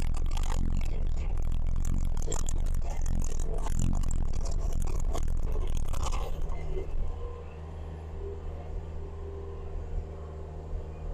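Skid steer engine running with a steady low hum while dirt scrapes and rattles, for about six seconds. Then the scraping stops and the engine settles to a quieter idle.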